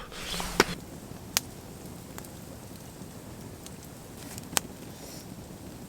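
Campfire crackling: a few scattered sharp pops over a low hiss, the loudest about four and a half seconds in, as the flames die down.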